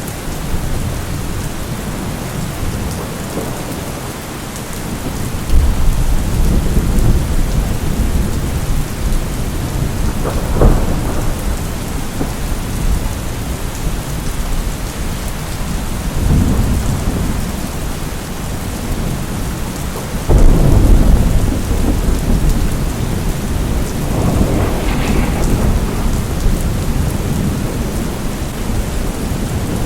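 Thunderstorm: steady heavy rain with thunder rolling in several times. There is a sharp crack about a third of the way in, and the loudest, deepest rumble comes about two-thirds through.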